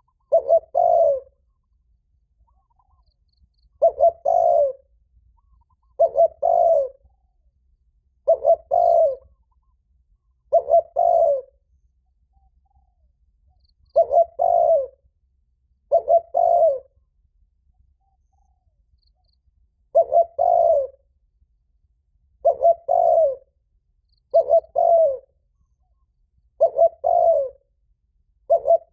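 Spotted dove giving its loud, ringing challenge coo: a phrase of two or three low notes, repeated about a dozen times every two to four seconds.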